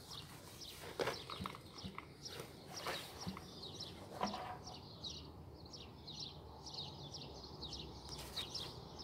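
Small birds chirping faintly in the background, short quick notes repeated over and over and growing busier in the second half, with a few scattered soft knocks in the first half.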